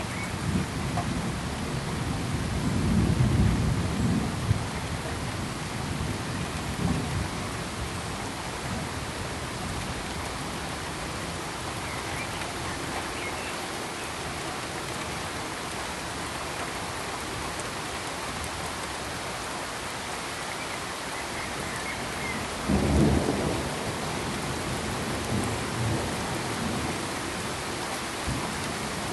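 Steady, even hiss like heavy rain, with low rolls of thunder swelling about three seconds in and again near the twenty-three-second mark.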